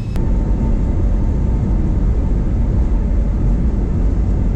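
Steady, loud low rumble of a passenger airliner's engines and airflow heard inside the cabin, with a faint steady hum over it. A click just after the start marks a jump to a louder rumble.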